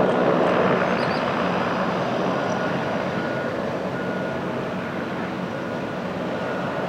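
Aircraft engine noise: a steady, loud rumble that slowly fades over the seconds.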